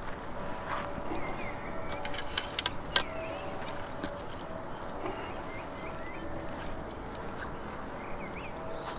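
Birds singing, with short high downward-sweeping phrases repeating every second or so over a faint steady hum. Two sharp clicks come about two and a half and three seconds in.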